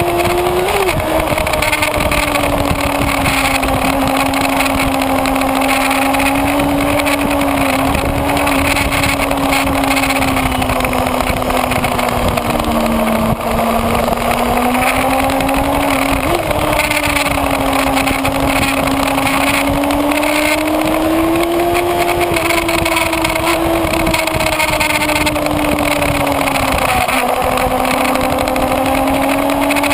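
Kawasaki Ninja ZX-6R inline-four engine running hard at high revs, its pitch slowly rising and falling with short quick jumps several times, over heavy wind rush on the microphone.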